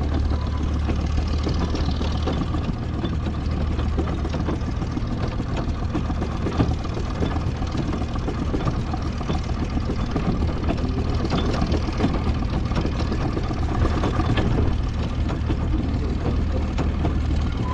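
An engine running steadily with a constant low hum, mixed with mechanical rattle and scattered clicks.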